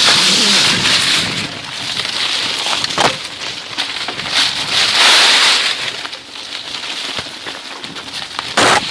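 Rushing noise of a bicycle ride along a forest path, swelling loudly near the start and again about five seconds in, with a few sharp clicks.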